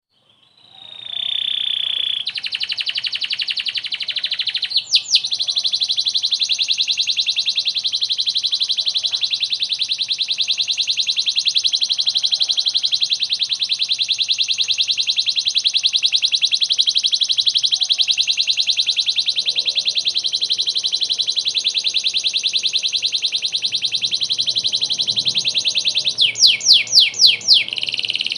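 Canary singing: a short whistled note, then one long, very fast rolling trill held for over twenty seconds, broken by a few loud sweeping notes about five seconds in and again near the end.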